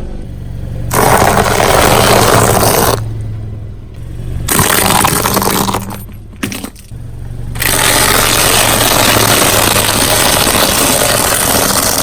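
Car tyre rolling over and crushing objects: three spells of loud crunching and crackling that start and stop abruptly, the last and longest from a little over halfway in. Beneath them runs the steady low hum of the car's engine.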